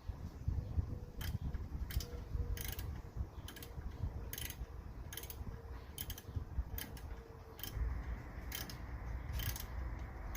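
Hand ratchet wrench clicking on its return strokes, a short rattle of clicks about every two-thirds of a second, with wind rumbling on the microphone.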